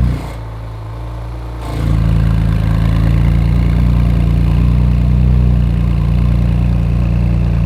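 Porsche 911 GT2's twin-turbo flat-six idling just after being started. The revs fall back from the start-up flare, then about two seconds in rise to a steady fast idle.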